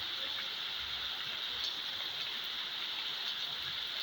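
Heavy rain falling: a steady, even hiss with a few faint scattered drop ticks.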